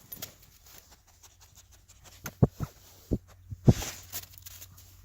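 A handful of short, dull, low knocks in quick succession, between about two and four seconds in.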